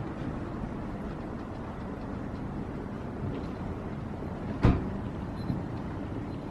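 Steady low rumble with one sharp thump about two-thirds of the way through.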